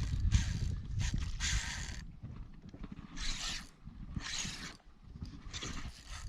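Fishing reel being wound in short spurts, a scraping whirr that comes and goes about once a second, over a low rumble of wind on the microphone.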